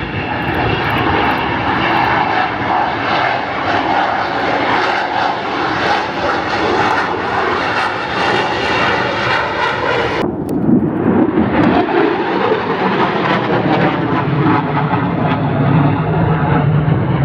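Loud jet aircraft engine noise as airshow jets fly overhead, a continuous rushing noise. About ten seconds in, the sound changes abruptly and loses its highest part, then a deeper tone builds.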